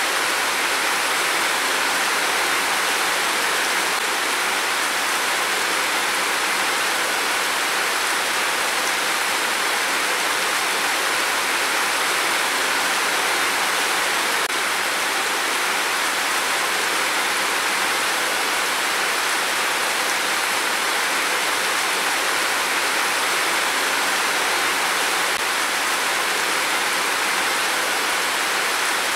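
Heavy rain pouring in a steady downpour, an even hiss with no thunder heard.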